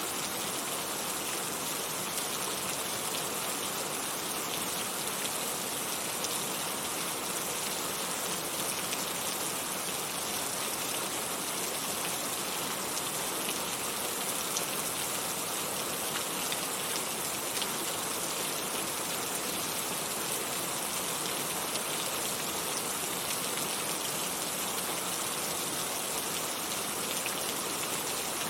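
Heavy rain falling steadily, a dense even hiss with fine drop ticks and no let-up.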